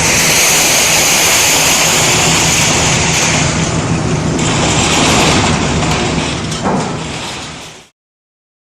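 Liebherr R974C high-rise material handler working: the diesel engine's steady drone under a loud high hiss of machinery noise, with a short clank about six and a half seconds in. The sound fades and stops dead about eight seconds in.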